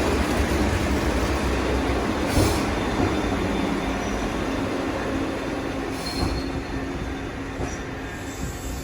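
Eizan Electric Railway train running on the rails: a steady rumble with wheel noise that slowly fades, with brief high wheel squeals about four and six seconds in.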